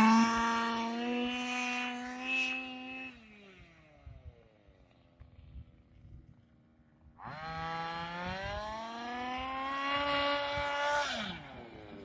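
HPI Baja 5B RC car's stock 23cc two-stroke petrol engine at high revs, easing off to a faint low idle after about three seconds. About seven seconds in it revs up again, climbing steadily, then drops off near the end.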